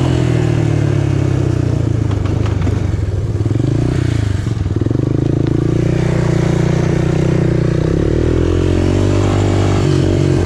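Engine of an off-road three-wheeler or dirt bike running continuously while riding, its pitch dipping and rising a couple of times with the throttle.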